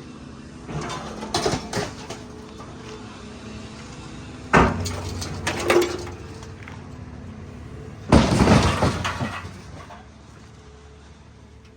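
Excavator working over a scrap truck: its engine runs steadily under a series of sharp crashes of metal and breaking glass. The loudest come about four and a half seconds in and again at about eight seconds.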